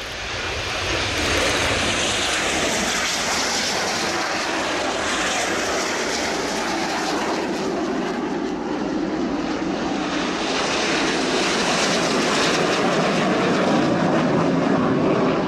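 Several BAE Hawk T1 jets' Rolls-Royce Turbomeca Adour turbofans at takeoff power as the formation rolls and lifts off: loud, steady jet engine noise that builds over the first second or two and then holds.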